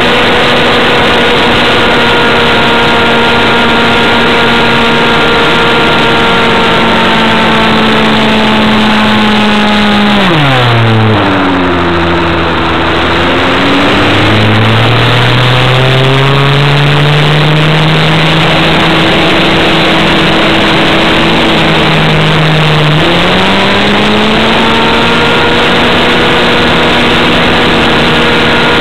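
Small two-stroke model-airplane engine (an Avistar 53) running at high throttle, its pitch falling sharply about ten seconds in as the throttle is pulled back to near idle, creeping up slowly, then jumping back to full throttle about two-thirds of the way through. A steady rushing noise of wind and airflow runs under it.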